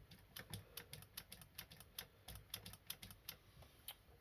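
Faint, quick, irregular light clicks, about five a second, from small chainsaw parts being handled and worked by hand.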